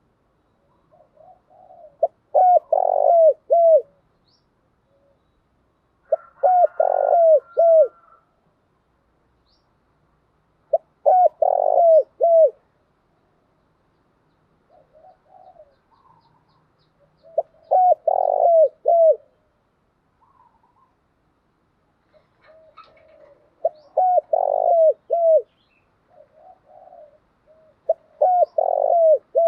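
Spotted dove cooing: each bout starts with a few soft notes, then several loud, quick, down-slurred coos. The bouts come back roughly every five to six seconds, with the last one starting near the end.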